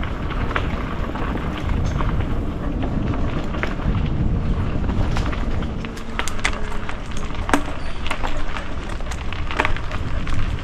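Mountain bike riding down a dirt trail: a steady low rumble of tyres rolling over dirt and gravel with wind on the microphone, broken by frequent sharp clicks and rattles from the bike as it jolts over bumps.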